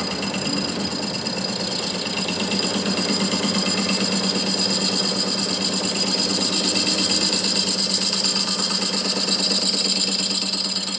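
Motor-driven workshop machine running steadily, with a constant low hum and a high whine that grow a little louder a couple of seconds in.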